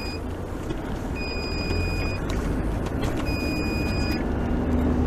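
Vehicle engine running under a steady electronic warning beep, about a second long and repeating roughly every two seconds, three times.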